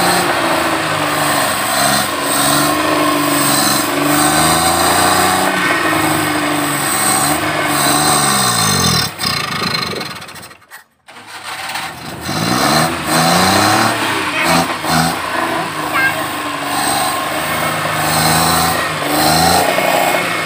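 Maruti 800's small three-cylinder petrol engine running and being revved, its pitch rising and falling. About nine seconds in it slows and dies, goes quiet for about a second, then starts again and revs back up.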